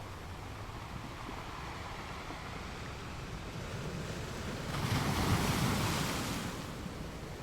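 Ocean waves washing onto a beach. A wave breaks about five seconds in with a louder rush of surf, then falls back to a steady wash.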